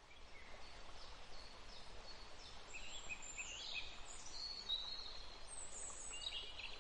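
Several songbirds chirping and whistling, short high calls and quick pitch glides overlapping one another, over a faint steady hiss of a light breeze.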